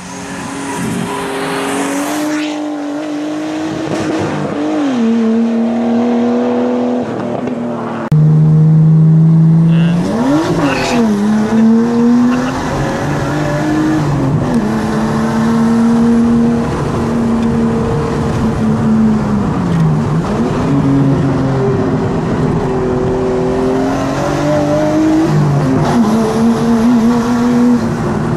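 Straight-piped Nissan RB25DET turbocharged straight-six revving hard through the gears, its pitch climbing and dropping sharply at each shift. For the first few seconds it is heard from outside, coming closer and louder. It is then heard from inside the cabin, louder and fuller.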